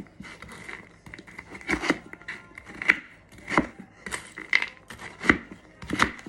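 Knife chopping frozen vegetables on a cutting board: a series of sharp strikes roughly once a second, with quieter scraping and mixing between.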